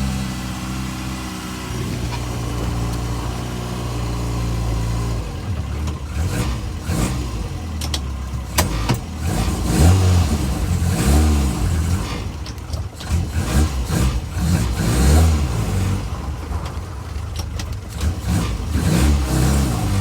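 MG Midget's newly rebuilt engine, still running in, idling steadily for about five seconds, then its speed rising and falling again and again as it is revved, with some sharp clicks among the swells.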